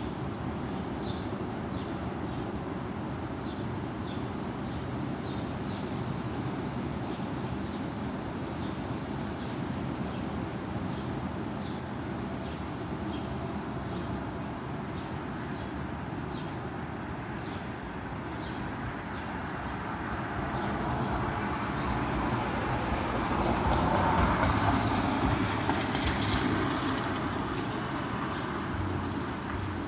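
Strong wind blowing steadily, rising to a louder gust about three-quarters of the way through.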